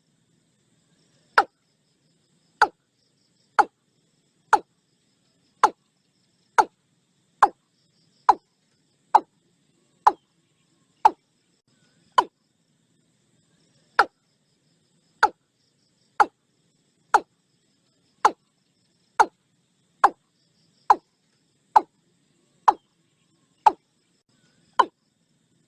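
Watercock calling: a long series of short, identical notes, about one a second, coming a little faster toward the end, with a brief pause about halfway through.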